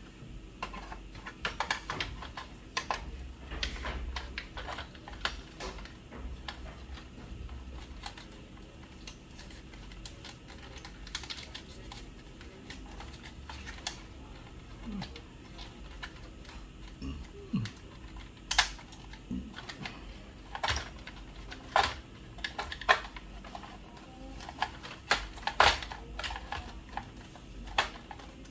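Irregular clicks and knocks of small parts being handled and fitted as a replacement power supply board is seated into an inkjet printer's plastic chassis, with a few sharper clicks in the second half.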